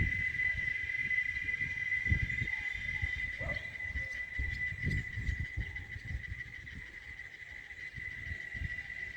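Cicadas in a tree giving one steady, unbroken high buzz, with irregular low rumbles underneath.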